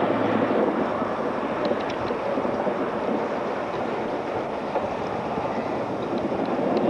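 A formation of Pilatus PC-9 turboprop trainers flying past, a steady rumbling rush of engine and propeller noise that eases slightly after a couple of seconds.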